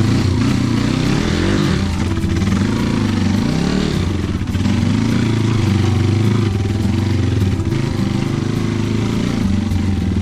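Dirt bike engine running at low to middle revs, its pitch rising and falling again and again as the throttle is worked on a wet, slippery rocky track.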